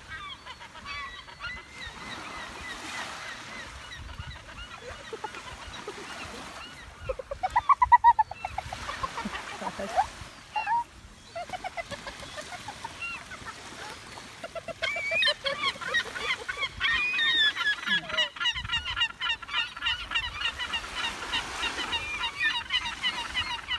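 A flock of birds calling harshly as they squabble and fight, with a loud run of quick calls near the middle. The calling becomes a dense, overlapping chorus for the last third.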